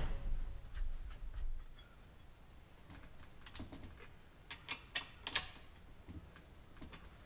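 Scattered light metallic clicks and ticks as a new bar and chain are fitted by hand to a Holzfforma 372XP chainsaw, the chain links and bar parts clattering as they are worked into place.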